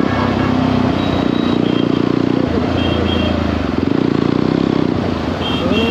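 Jawa 42 motorcycle's single-cylinder engine running at road speed, its note stepping in pitch a few times as the rider changes throttle or gear.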